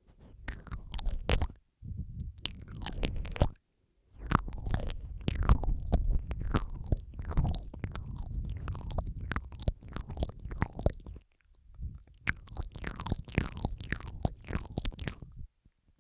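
Close-miked ASMR mouth sounds: wet clicks, smacks and licking noises in runs of a few seconds with short pauses, layered over each other.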